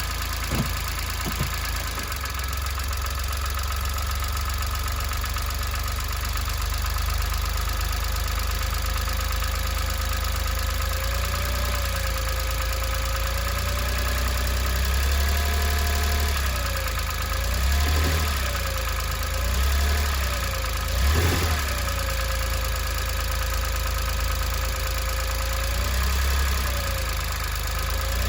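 Daihatsu Atrai Wagon's three-cylinder 660 cc engine idling in drive under load, its speed briefly rising and dropping back several times. It is a worn engine past 110,000 km, known for an abnormal noise and heavy oil use, here running on 15W-50 motorcycle oil.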